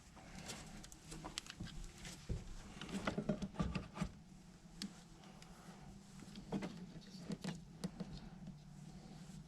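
Faint light clicks and rustles of hands working on boat dash wiring while testing for power after a fuse change, over a low steady hum.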